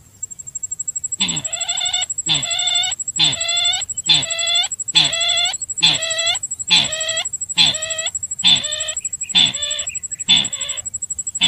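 Lure call for the sintar bird: a fowl-like call repeated about once a second, starting about a second in, each call short and hoarse with a downward bend. A faint steady high whine runs underneath.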